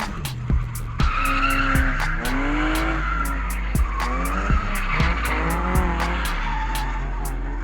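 A car doing a burnout: the engine revs up and down repeatedly while the tyres squeal, over music with a steady beat.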